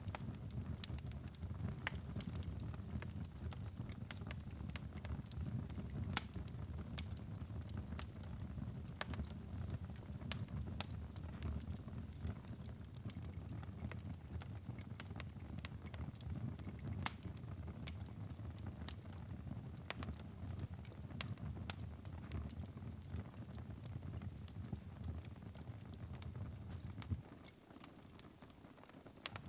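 Wood fire burning in a fireplace: a low steady rumble of flames with frequent sharp crackles and pops scattered throughout. The low rumble dips briefly near the end while the crackling goes on.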